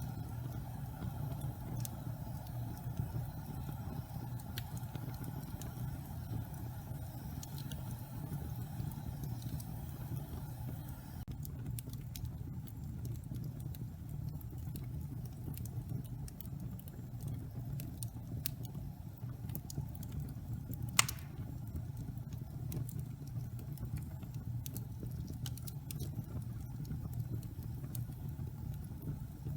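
Wood fire burning in a fireplace: a steady low rumble of flames with scattered small crackles, and one sharp, loud pop about twenty-one seconds in. A soft hiss drops away about a third of the way through.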